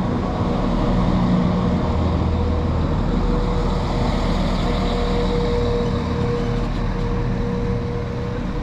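Diesel train engine running steadily, a low drone with a steady whine above it.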